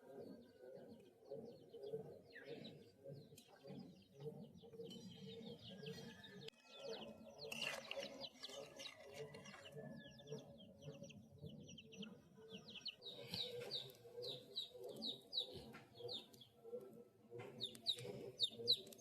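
Small birds chirping in quick runs of short high notes, busiest in the second half, over a steady low, uneven background sound.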